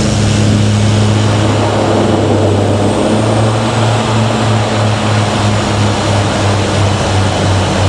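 Propeller engines of a small sightseeing plane droning steadily, heard from inside the aircraft; from about three seconds in, the low hum takes on a slow, regular throb.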